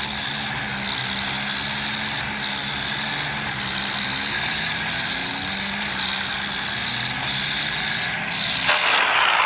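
Tractor diesel engine running steadily, with a louder rushing noise coming in near the end.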